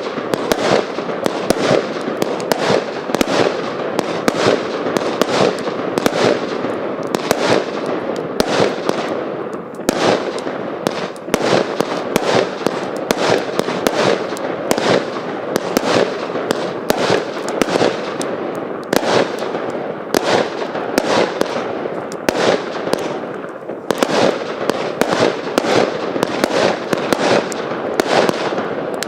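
Hallmark Fireworks 'Squid Game' firework firing a dense, rapid barrage of bangs, several a second with no let-up.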